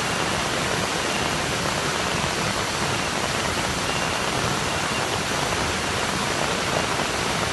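Steady rush of falling water from a waterfall swollen with floodwater, an even, unbroken roar.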